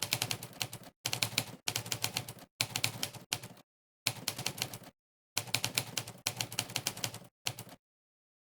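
Monkeytype's sampled typewriter sound effect, one key strike per keypress, in quick runs of many strikes broken by short gaps of total silence. The strikes stop near the end.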